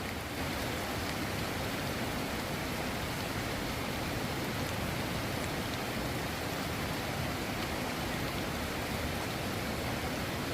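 Steady, even hiss of water with no breaks or separate events.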